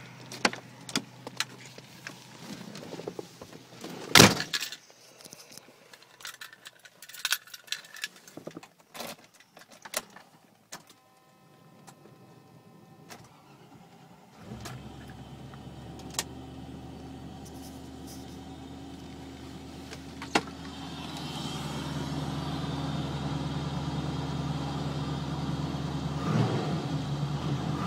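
Keys jangling and clicking with a loud knock about four seconds in. About halfway through, a 1995 Range Rover Classic LWB's V8 catches on a cold start and runs at a steady idle that grows louder about 21 s in. It has an NRP exhaust and a sucking intake noise from a K&N cone filter mounted directly on the mass airflow sensor.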